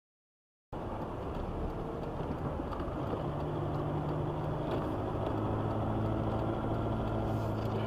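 Silence for under a second, then a car's steady engine hum and road noise from inside the moving car, with a few faint clicks.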